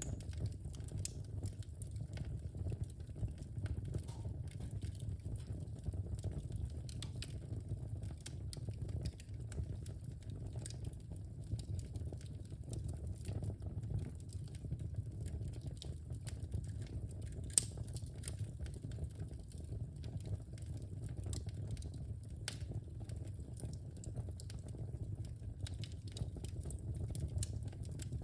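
Wood fire burning in a fireplace: a steady low rumble of flames with frequent small crackles and pops, one sharper pop about seventeen and a half seconds in.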